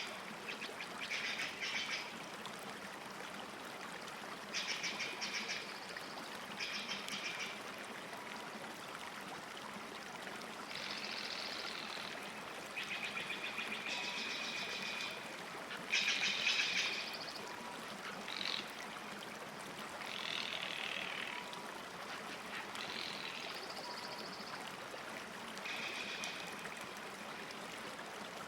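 Birds calling over and over in short, fast trilled phrases about every two to three seconds, over a steady rush of lake water.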